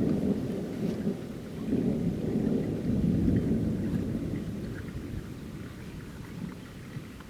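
Rolling thunder rumbling, loudest over the first three seconds or so, then slowly dying away, with rain pattering throughout.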